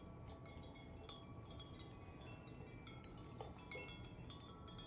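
Wind chimes ringing faintly and irregularly as gusts knock them, many overlapping metallic tones struck every fraction of a second over a low wind rumble.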